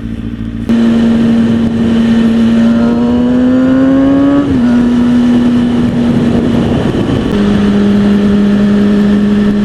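2003 Kawasaki ZX-6R 636's inline-four engine pulling hard at high revs, with heavy wind noise. It comes on loud suddenly about a second in, its pitch creeps up, then drops abruptly twice, around the middle and again a couple of seconds later.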